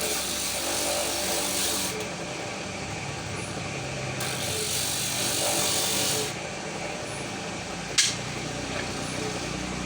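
Wood being sanded: two long rasping stretches of about two seconds each, with a sharp click about eight seconds in.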